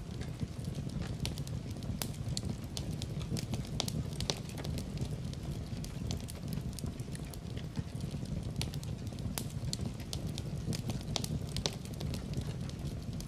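Fire burning in a fireplace: a steady low rumble of flames with frequent irregular crackles and sharp pops.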